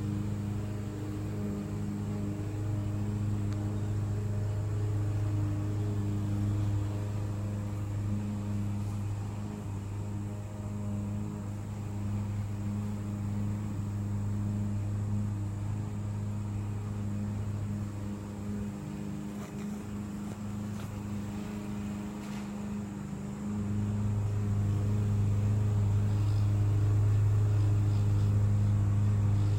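A steady low hum from a motor or electrical device, thinning out for a few seconds past the middle and then coming back louder.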